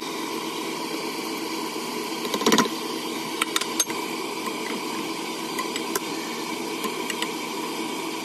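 Steady sizzling hiss of julienned carrots and raisins cooking in oil in a pot, with small crackles and one louder stir of the wooden spatula about two and a half seconds in.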